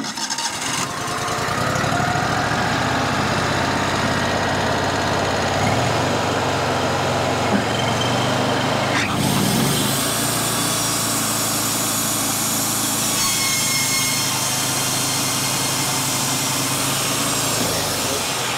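Wood-Mizer bandsaw mill running steadily under load as its blade, ruined by hitting a nail or other metal buried in a walnut log, is forced into the cut. It fails to get through the metal.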